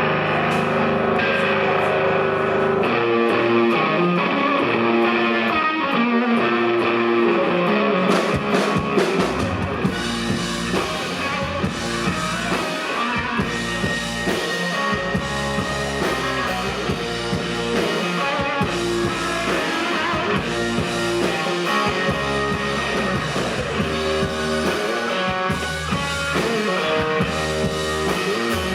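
Live rock band playing an instrumental song intro led by guitar. The music builds: a low bass line comes in about three seconds in, drums and cymbals about eight seconds in, and the full band plays from about ten seconds on.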